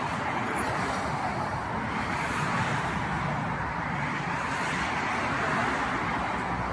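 Steady hum of road traffic, an even wash of noise with no distinct events.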